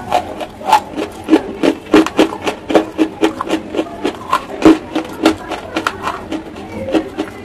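Close-miked chewing of chalk: crisp, irregular crunches about three a second as the chalk is bitten and ground between the teeth.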